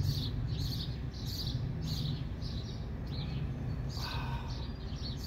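A small bird chirping over and over, short high chirps about twice a second, over a steady low background rumble.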